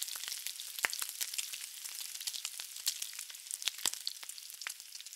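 Mutton and radish curry sizzling and crackling in a pressure cooker pot, a dense run of small pops over a hiss that grows fainter near the end.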